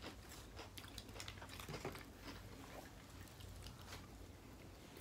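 Faint chewing and biting of fast-food sliders, with small scattered mouth clicks.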